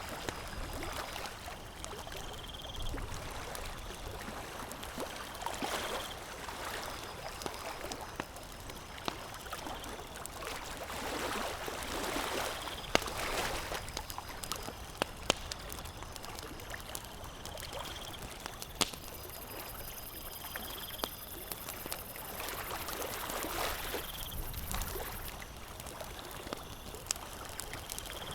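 Campfire crackling, with a few sharp pops, over a steady rushing noise that swells now and then.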